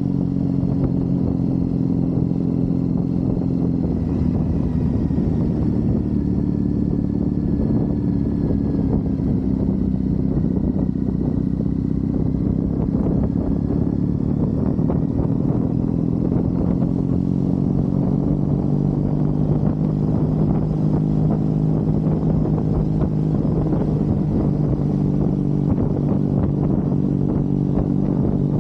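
Triumph Bonneville's parallel-twin engine running steadily under way. Its note dips about four seconds in, then climbs again between about sixteen and twenty seconds in and holds.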